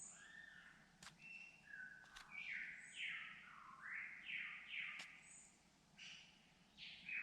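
Bird calls: a quick run of short sliding whistled notes, some rising and some falling, mixed with brief high chirps and a few sharp clicks.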